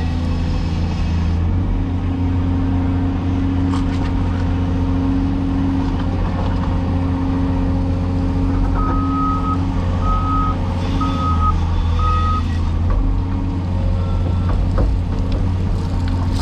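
Cat 336E excavator's diesel engine running steadily, with a backup alarm beeping four times at one pitch about halfway through.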